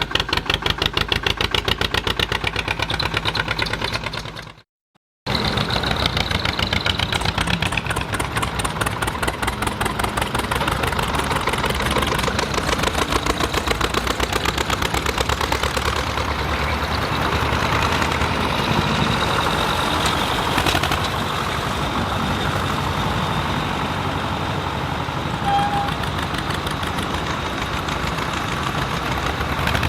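Vintage Zetor 25 tractors' two-cylinder diesel engines running with an even pulsing exhaust beat. The sound drops out for under a second about five seconds in, then the engine beat carries on.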